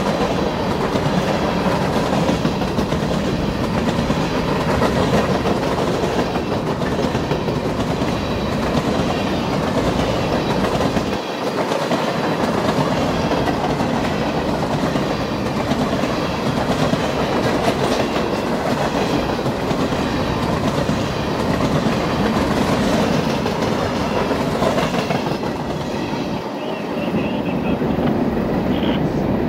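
A train rolling past, its steel wheels running along the rails in a steady, dense rumble, with brief dips about eleven seconds in and again near the end.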